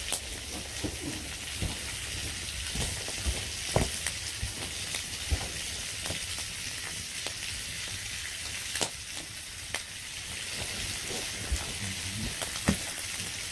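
Bacon and meat frying over an open wood fire: a steady sizzling hiss with a few sharp pops.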